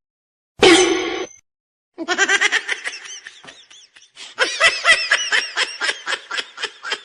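Someone laughing hard in quick repeated "ha-ha" pulses, in two long bouts, after a short voiced sound under a second in.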